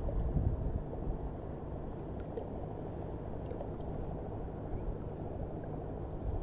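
Low, steady rumble of water and wind noise around a kayak on the sea, with a few faint clicks.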